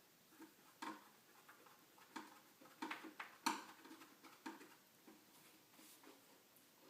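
Faint, scattered clicks and light knocks of metal detector shaft pieces being handled and fitted together.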